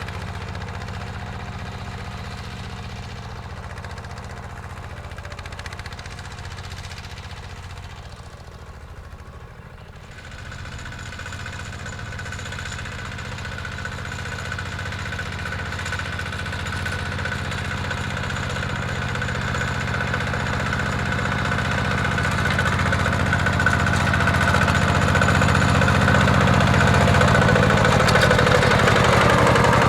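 Mini tractor's engine running steadily while plowing. It dips a little about a third of the way in, then grows steadily louder.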